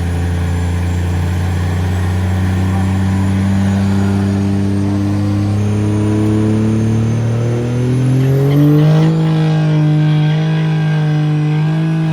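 Truck engine running, its pitch climbing slowly and steadily for about nine seconds as the revs build, then holding at the higher speed near the end.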